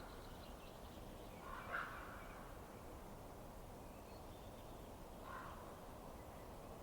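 Low steady noise of a fireplace fire, with two short harsh call-like sounds, one about two seconds in and a fainter one about five seconds in.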